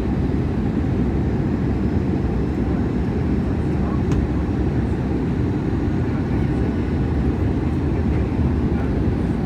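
Steady cabin noise inside an Airbus A321 airliner in flight: a deep, even roar of airflow and jet engines. A faint tick comes about four seconds in.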